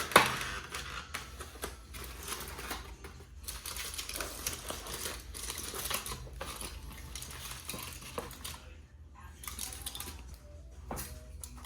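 Scattered clicks and light clatter of small hard objects being handled, with one sharp loud click just after the start.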